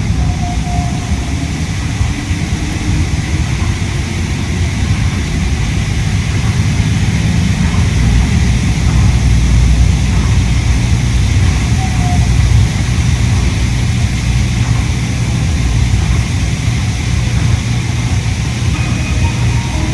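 Inside a Yui Rail monorail car running between stations: a steady low rumble from the train's running gear mixed with the hiss of the car's air conditioning, growing louder for a few seconds about halfway through.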